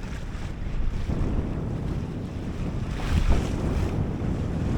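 Strong wind buffeting the microphone and waves washing past a small sailboat running before about 20 knots of wind, with one louder wave wash about three seconds in.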